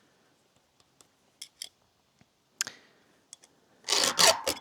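A file on the cutters of a chainsaw chain being sharpened by hand: a few light clicks, then near the end a short run of rasping file strokes.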